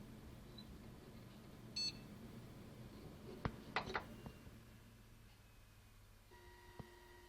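A short high electronic beep, then a quick cluster of clicks about two seconds later as the machine powers off, after which the low running hum fades. Near the end a faint steady whine sets in: the strange noise this Western Digital WD2004FBYZ hard drive makes after shutdown, even though it shows no SMART warnings.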